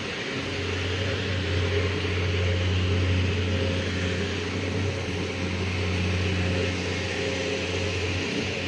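Diesel engine of a concrete mixer pump running steadily: a low, even hum with a mechanical hiss over it.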